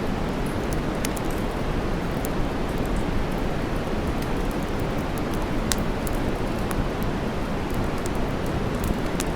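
Steady noise, heaviest in the low range, with campfire crackling over it: scattered sharp pops and snaps, a few at a time, then sparser.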